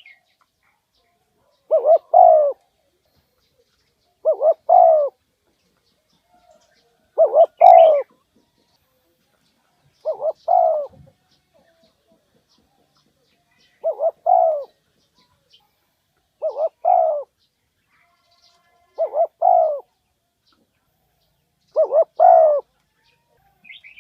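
Spotted dove (cu gáy) calling. It repeats its short phrase of two quick coos and a longer third coo about every two and a half to three seconds, eight times in all.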